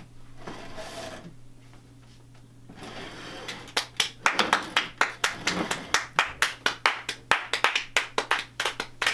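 A few people clapping, the separate hand claps coming several a second, starting about three and a half seconds in after faint voices.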